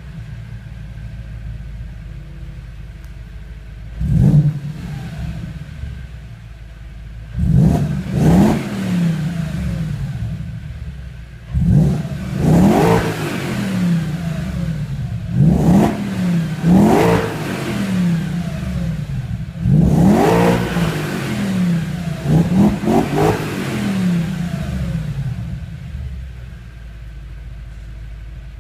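Audi S4 B6's 4.2-litre V8 engine idling, then blipped on the throttle again and again. The revs come singly or in quick groups of two to four, each a sharp rise in pitch that falls straight back, every few seconds. It settles back to a steady idle near the end.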